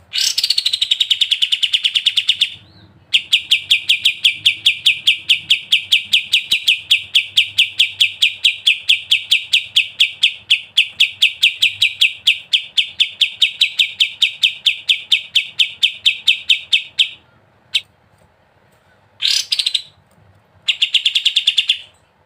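Kapas tembak songbird singing its rapid, machine-gun-like ngebren trill: many evenly repeated notes, about six a second, kept up for roughly fourteen seconds. Shorter bursts of the same trill come before and near the end.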